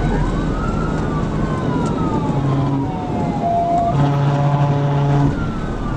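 Police cruiser siren wailing in slow rising and falling sweeps over the steady road and engine noise of a car in a high-speed pursuit. A steady low pitched tone sounds with it from about four seconds in.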